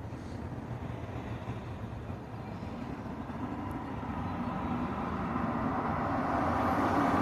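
Mini bike's small engine running under way with wind rush, getting steadily louder over the last few seconds.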